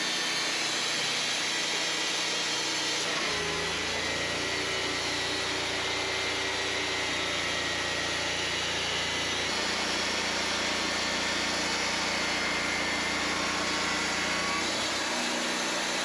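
Wood-Mizer LT40 portable bandsaw mill running steadily, its engine and band blade working through a log. The tone of the machine shifts abruptly a few seconds in, about halfway through, and again near the end.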